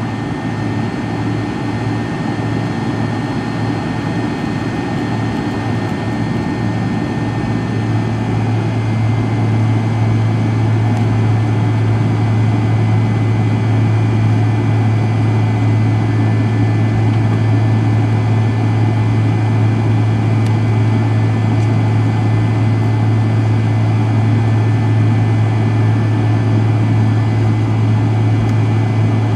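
Rear-mounted jet engines of a McDonnell Douglas MD-83 running at high power, heard from inside the rear cabin as a loud, steady, deep drone that grows a little louder about eight seconds in and then holds.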